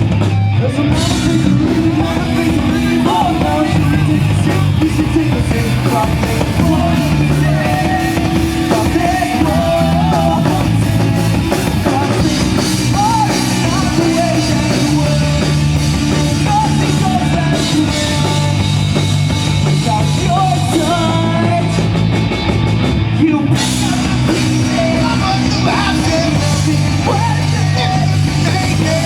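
Live rock band playing a song, with a singer's voice over the instruments.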